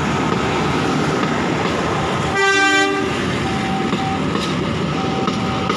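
Passenger train coaches rolling past on the rails with a steady rumble of wheels. A short horn toot of about half a second sounds a little over two seconds in.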